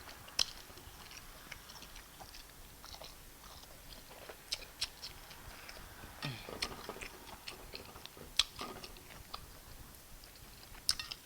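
Close-miked eating sounds: wet chewing and sharp lip and mouth smacks, irregular, as a person eats fufu with bitter leaf soup by hand.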